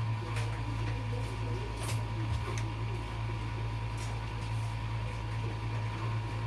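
Miele W 759 washing machine running with a steady low hum, with a few light clicks.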